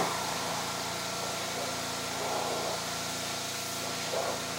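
A small gasoline engine running at a steady speed, a constant droning hum with a few faint swells.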